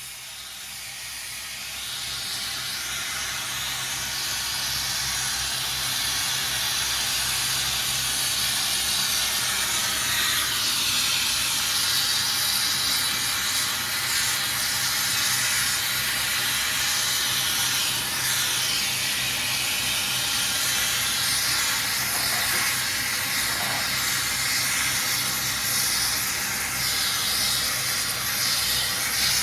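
Gas torch flame hissing steadily, growing louder over the first several seconds, with a low hum underneath.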